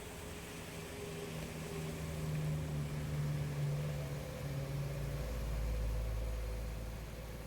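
A motor vehicle's engine running with a steady hum that grows louder to the middle and then eases off, with a deeper low rumble taking over from about five seconds in.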